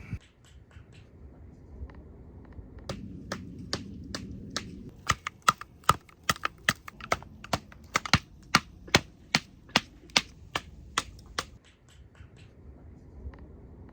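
A run of sharp clicks or knocks, about two to three a second, starting about three seconds in and stopping a couple of seconds before the end.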